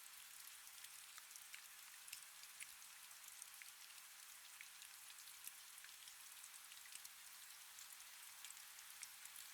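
Faint, steady rain: an even hiss with many small, scattered drop ticks.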